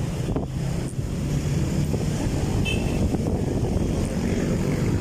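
Steady wind rumble on the microphone with the low drone of the moving ride.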